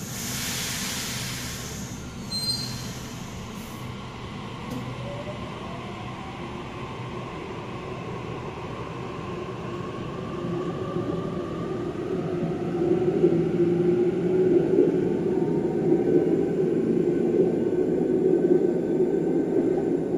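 Sydney Trains electric passenger train approaching through the tunnel into an underground station, its motor whine and wheel noise growing louder over the second half, with pitches gliding up and down. A short hiss opens the clip.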